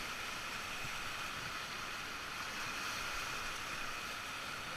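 Rushing whitewater of river rapids, a steady hiss of water.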